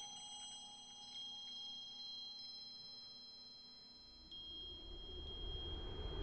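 Soft, high chime tones ring out one after another and hang on, a sparkling film-score texture. A low rumble swells in over the last two seconds.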